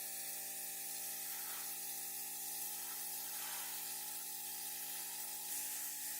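Steady hiss of paint being sprayed onto a model car body, over a set of steady tones that shift about five and a half seconds in.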